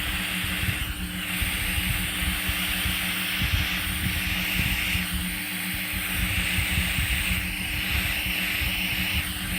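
Heat gun running, with a steady motor whir under the hiss of blowing air. The hiss drops briefly and comes back about three times.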